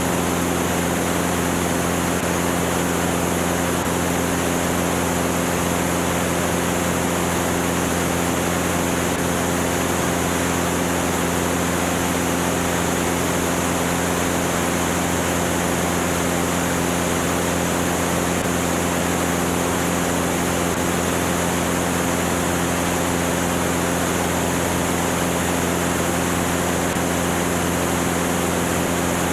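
Cessna 205's single piston engine and propeller droning steadily under a constant rush of wind noise, with no change in pitch or power.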